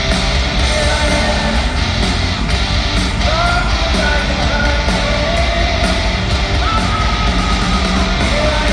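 Hard-rock band playing live at full volume: distorted electric guitar over bass and drums, with a wavering melody line on top.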